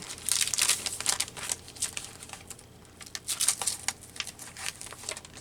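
Paper and craft supplies being handled on a desk: crinkling and rustling with small taps and clicks, busiest near the start and again a little past the middle, with a quieter stretch between.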